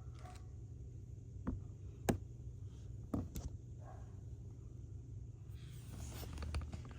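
Faint handling noise: a few sharp clicks and knocks, spread over the first three and a half seconds, over a steady low hum, with rustling near the end.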